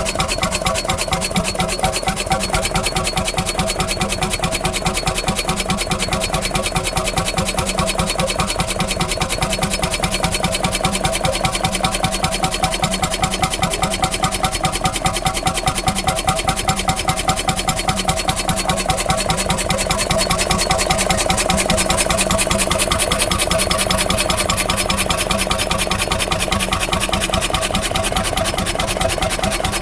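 A vintage engine running steadily, its firing beats rapid and even.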